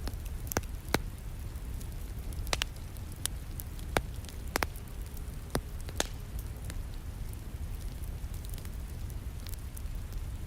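Wood fire crackling with sharp irregular pops, most of them in the first half, over a steady low rumble of rain.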